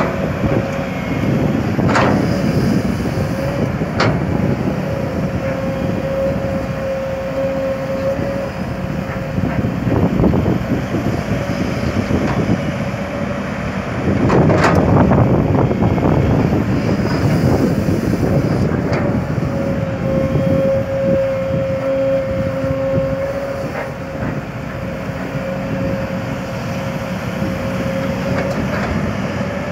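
Kobelco SK200 hydraulic excavator's diesel engine running under working load, with a steady high hydraulic whine that comes and goes. There are sharp knocks early on and a louder burst of clatter about halfway through as it digs soil and loads a dump truck.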